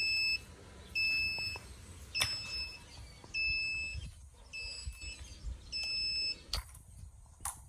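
Egg incubator's alarm beeping over and over, a short two-tone beep about every second, which the owner takes as the signal that it has dropped below temperature. The beeping stops about six and a half seconds in, followed by a few sharp clicks.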